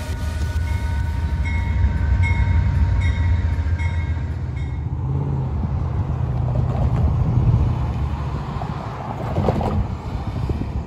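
Passenger train's cars rolling past a grade crossing as a steady low rumble. A crossing bell rings about twice a second for the first few seconds.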